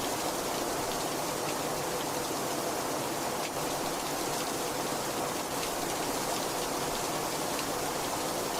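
Very heavy rain falling steadily: an even, unbroken hiss with faint scattered drop taps.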